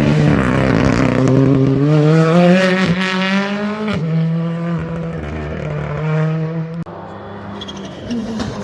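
Rally car engine accelerating hard, its note rising and then dropping sharply at each of two quick upshifts about three and four seconds in. The sound falls away suddenly near the end.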